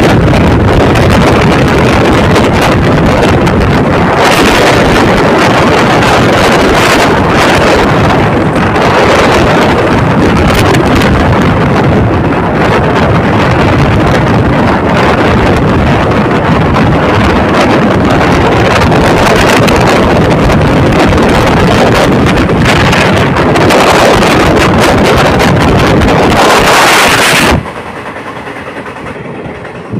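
Wind buffeting a phone microphone held out of the open door of a moving passenger train, over the noise of the train running on the track. Near the end the sound drops sharply for a couple of seconds as the phone is brought back into the doorway.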